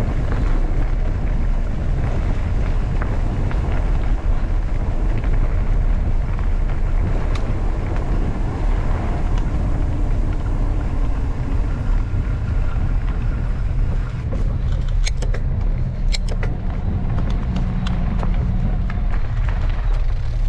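Wind buffeting the microphone over the rolling noise of a mountain bike's tyres on a towpath, a steady low rumble, with a few sharp clicks about three-quarters of the way through.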